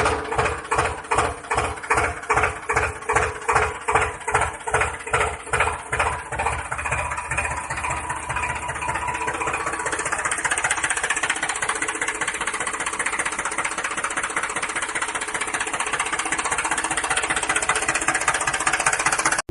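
Tractor engine chugging in even beats, about three a second, that quicken and blend into a steady running sound about eight seconds in.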